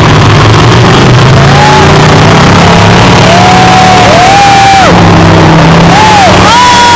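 1995 Ford mud truck's engine revving hard again and again, each rev climbing, holding briefly and dropping, over a steady low drone. The recording is overloaded.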